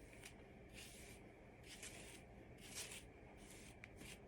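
Faint swishes of a wire-bristled hairbrush dragged through hair, a stroke about every second.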